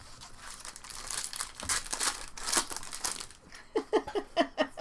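Trading-card pack wrapper crinkling as it is handled, for about three seconds. Short voice-like bursts follow near the end.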